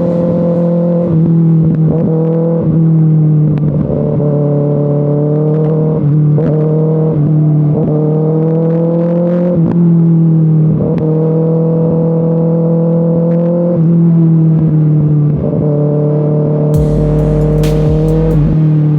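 Kawasaki ZX-6R inline-four engine running at steady mid revs under the rider, its pitch easing up under throttle and dipping slightly every second or two. Near the end, a burst of low rumble and hiss joins it.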